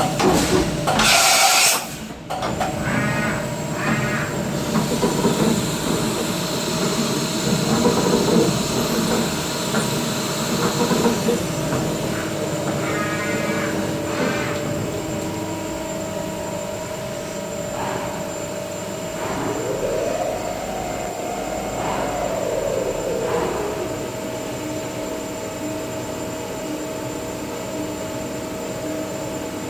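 CNC milling machine running a machining cycle: a steady whine with short squealing pulses from the cut, and the spindle note rising and then falling back about two-thirds of the way through.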